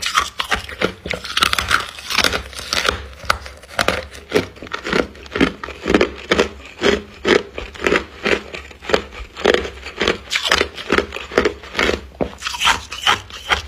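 Close crunching and chewing of a mouthful of freezer frost, a steady run of crisp crunches about two a second.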